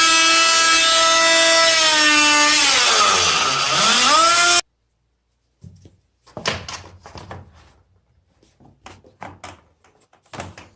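Oscillating multi-tool running at a steady high buzz, its pitch sagging as the blade bogs down cutting into a wooden baseboard, then rising back before the tool is switched off suddenly. Afterwards a series of light knocks and clicks of wood and tool being handled.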